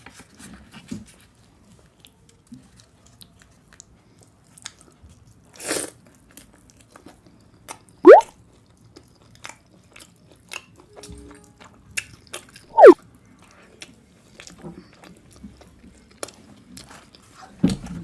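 Close-up eating sounds: biting and chewing with many small wet mouth clicks. Two short, loud, sharply rising squeaks cut through, about 8 and 13 seconds in.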